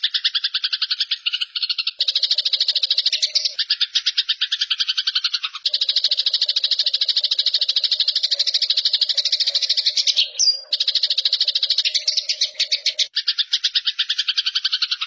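Eurasian tree sparrows giving harsh fighting calls: a dense, rapid chatter of fast repeated notes from several birds at once, with a brief break about ten seconds in.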